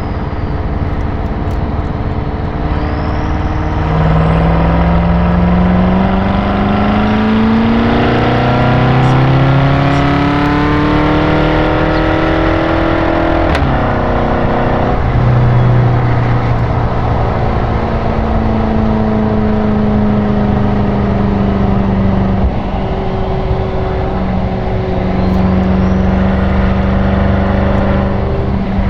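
BMW M6 Gran Coupe's twin-turbo V8 through an Akrapovič Evolution Line exhaust, accelerating with its revs climbing steadily through one gear. Partway through there is a quick upshift, after which the engine settles to a steady, lower drone at cruising speed.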